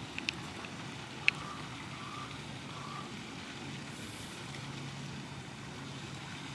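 Faint steady low hum with a few sharp clicks, the loudest about a second in.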